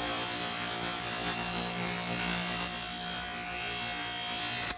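A dull steel knife blade held against a spinning bench grinder wheel, making a steady grinding hiss that cuts off abruptly near the end as the blade comes off the wheel. The grinder motor hums steadily underneath.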